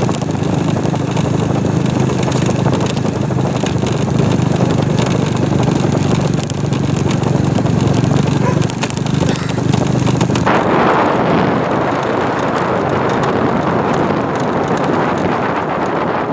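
A motor engine running steadily with a low hum. About two-thirds of the way in, a loud rush of wind noise on the microphone sets in and covers it.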